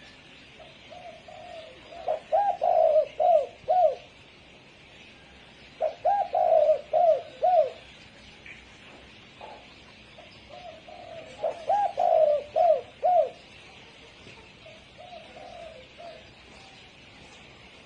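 Spotted dove cooing: four phrases of several short rising-and-falling coos each, the last phrase fainter, over a steady faint hiss.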